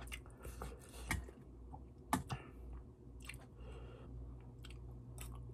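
A person chewing a mouthful of malatang close to the microphone, with scattered wet mouth clicks and smacks; the sharpest smack comes a little past two seconds in.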